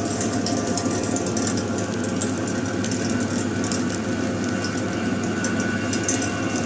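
A motor running steadily with an even, unbroken hum.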